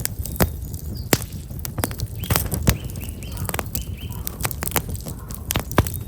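Black locust firewood burning in a campfire, crackling and popping with many sharp snaps over a low steady flame rumble. About two seconds in, a small bird sings a quick series of about six short chirps.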